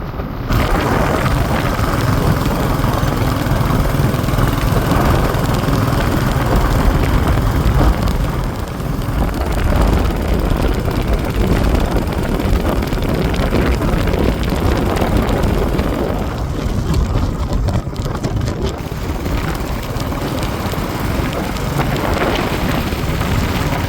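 Royal Enfield motorcycle being ridden at road speed, its engine running steadily under heavy wind rush on the microphone.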